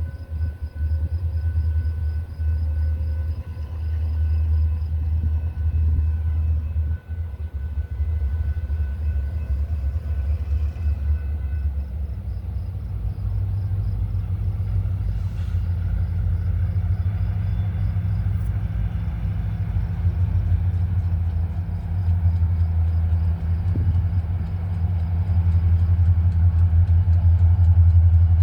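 Freight train diesel locomotives rumbling steadily, the deep engine rumble growing louder toward the end.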